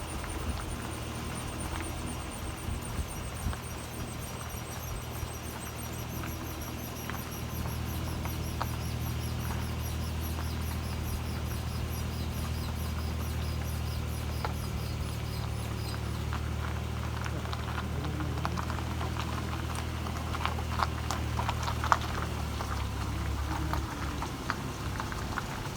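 Faint, rapidly repeating high-pitched squeaking over a steady low hum. Scattered clicks and crackling follow in the second half.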